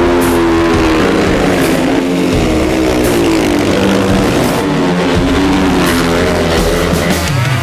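Drag-racing motorcycle engine at high revs, loud throughout. Its pitch sags about halfway through, then climbs again.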